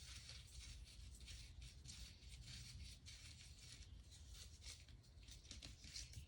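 Faint scraping and light ticks of small metal engine parts being handled and worked loose by hand, over a low steady hum.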